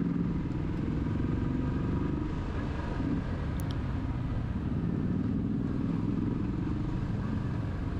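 Motorcycle engine running steadily while riding at a constant speed, heard from on the bike.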